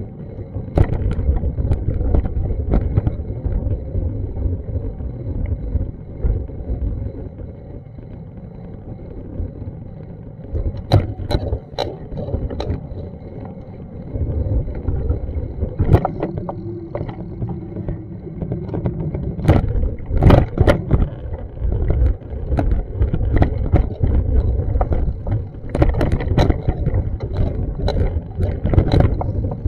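Outdoor street noise picked up by a walking action camera: a steady low rumble with scattered sharp knocks and clicks.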